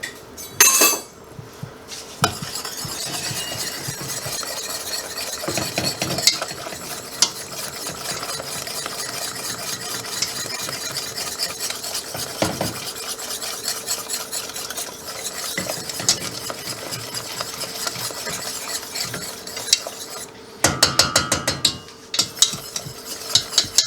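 A wire whisk stirring a thick, caramel-like sugar-and-butter glaze in a pan, making a steady scraping swish. Near the end come rapid, even strokes of about seven a second, the whisk clicking against the pan.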